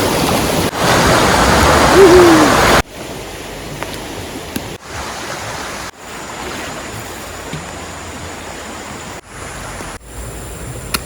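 Loud rushing water of a rain-swollen river, with a brief falling tone about two seconds in. It drops suddenly to a quieter steady rushing a little before three seconds in, and is broken by several abrupt cuts.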